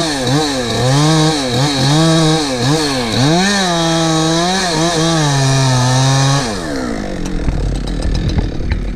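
Two-stroke chainsaw at full throttle cutting a tree, its engine speed dipping and recovering again and again as the chain loads up in the wood. About six and a half seconds in the throttle is released and the engine winds down, followed by a rough rustling noise with a few sharp cracks.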